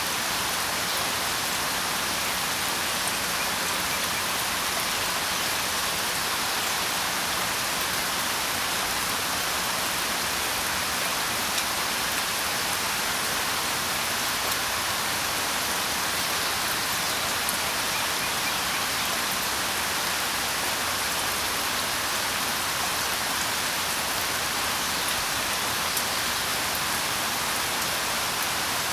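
Steady rain: a dense, even hiss of falling drops, with a few sharper individual drop ticks here and there.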